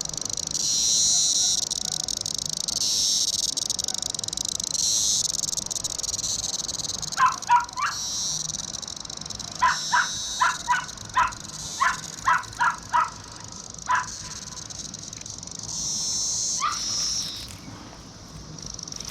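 Brood X periodical cicadas in a massed chorus, a steady high-pitched whine that swells and fades in waves. A run of short chirps cuts through it, two about seven seconds in, then about eight more over the following few seconds.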